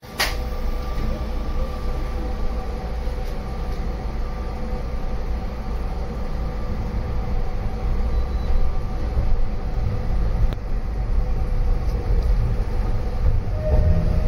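A 762 mm narrow-gauge Yokkaichi Asunarou Railway train running along the track, heard from inside the car: a steady low rumble with a faint steady whine over it, and a few light clicks.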